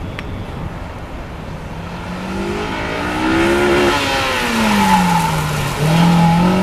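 Honda S2000's four-cylinder engine accelerating and lifting off through a cone slalom. Its note climbs in pitch, drops back about halfway through, then climbs again near the end, growing louder as the car comes closer.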